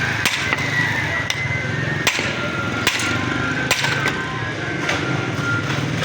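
Repeated hammer blows at an uneven pace, roughly one a second, over a steady low hum.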